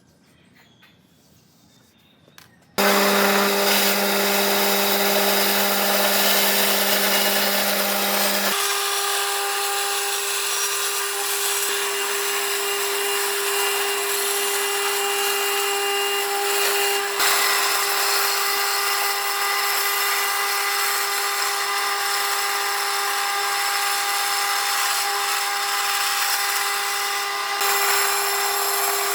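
A power tool running steadily while working wood, starting suddenly about three seconds in after near silence; a lower hum in it drops out a few seconds later.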